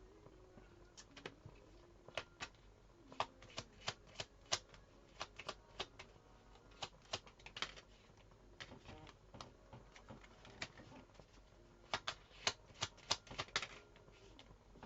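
Tarot cards being handled and shuffled: a run of sharp, irregular clicks and snaps, bunched in quick clusters.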